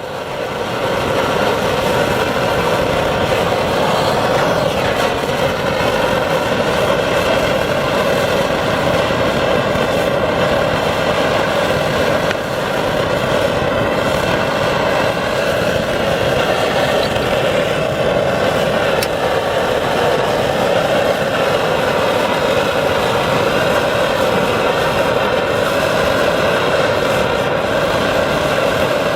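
Phoebus 725 pressurised petrol camping stove burning steadily at a constant level.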